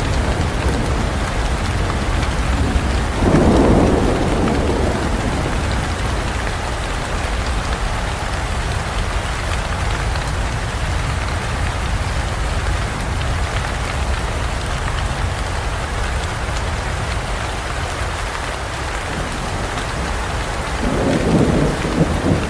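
Steady heavy rain falling, with thunder rumbling twice: once about three seconds in and again near the end.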